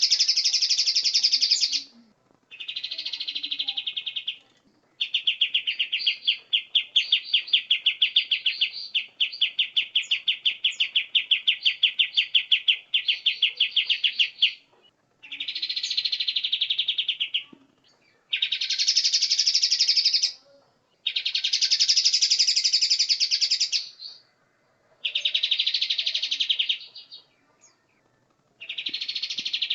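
Recorded songbird song used as masteran training audio: loud bursts of fast, high chattering trills, each a second or two long, with short pauses between them. In the middle comes one long run of rapidly repeated notes.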